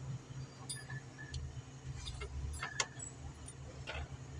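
A few sharp metallic clinks of hand tools on engine parts over a steady low engine hum.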